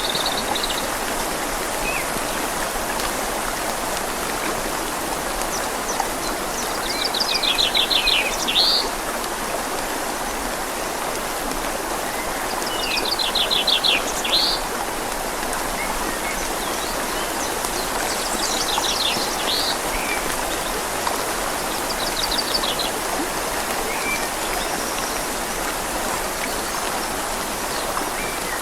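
Steady rush of a river flowing in light rain. A small songbird sings short, rapid trilled phrases, each ending in an upward note, about every five or six seconds.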